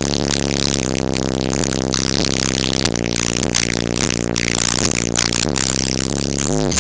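Music with a heavy bass line playing on a car's aftermarket sound system with Kicker Solo-Baric subwoofers, steady and loud throughout.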